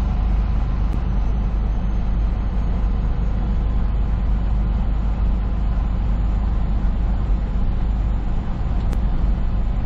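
Steady low drone of a semi truck driving at highway speed, heard from inside the cab: engine and road noise with no change in pace.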